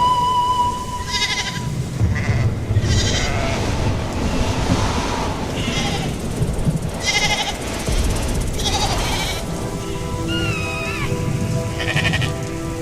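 Repeated short, rapidly pulsed animal calls over a low rumbling background. Several held steady tones, like a musical drone, enter about ten seconds in, along with a brief wavering whistle.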